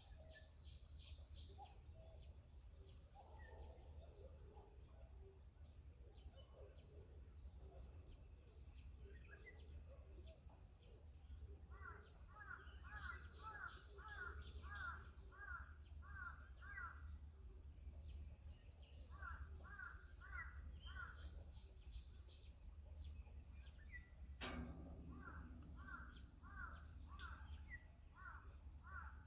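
Faint birdsong: bouts of short, repeated falling chirps, over a steady high-pitched trilling and a low rumble of background noise, with a single sharp click about two-thirds of the way through.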